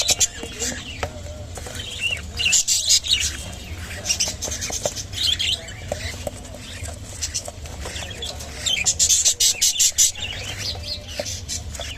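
Budgerigars chattering in bursts of rapid, scratchy high chirps, several times over, the longest and loudest burst near the end, over a steady low hum.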